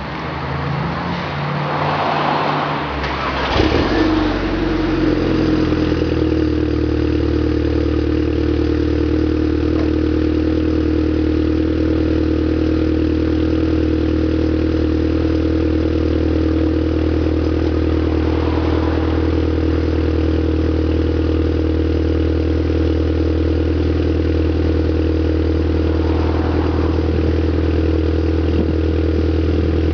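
Volkswagen GTI engine through a Scorpion non-resonated turbo-back exhaust just after a cold start. The note shifts and builds over the first few seconds, with one brief sharp knock, then settles into a steady, loud cold idle.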